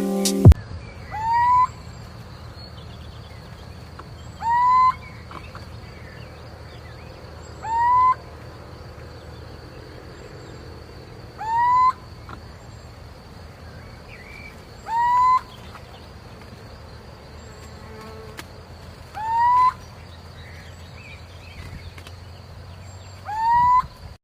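A bird calling: a short, loud, rising note repeated seven times, one every three to four seconds, over a faint steady high whine and low hum.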